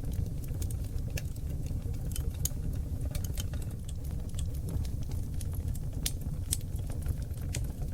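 Oak log fire crackling in a fireplace: a steady low rumble of flames with frequent sharp pops and crackles, scattered irregularly.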